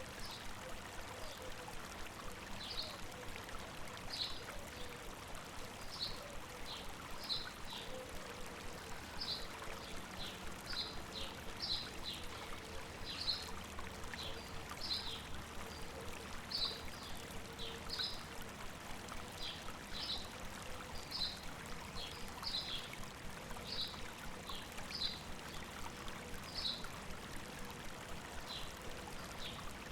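Stream running steadily over rocks, with a small bird chirping over it in short, high calls about once a second.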